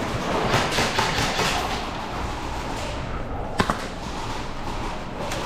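Rustling and handling noise from players' gear as they move, with two sharp clicks in quick succession about three and a half seconds in.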